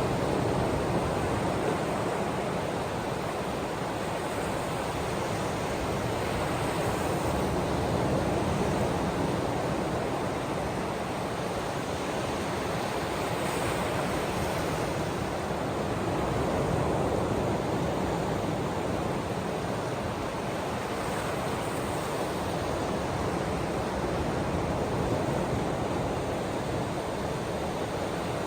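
Ocean waves washing onto a shore in a steady, dense rush of surf that swells and eases slowly every several seconds.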